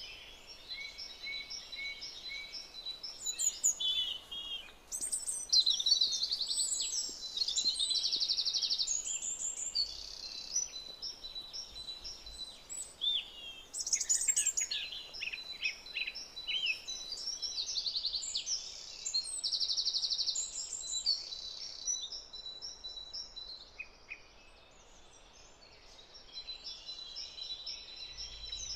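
Several songbirds singing, with overlapping high chirps and rapid trills.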